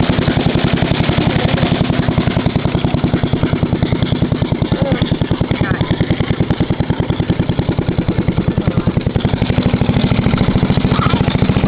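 Boat engine running steadily under way, a fast, even pulsing throb.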